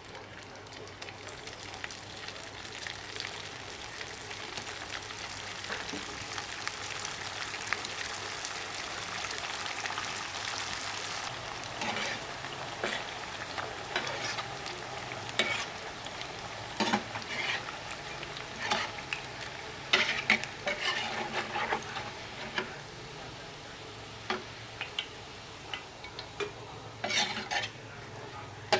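Food frying in hot oil in a pan, sizzling steadily. From about the middle on, a utensil repeatedly scrapes and clinks against the pan as the food is stirred.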